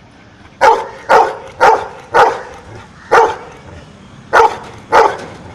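A dog barking seven times, the first four about half a second apart, then a pause and three more, counting out its answer to the sum 'seven plus one'.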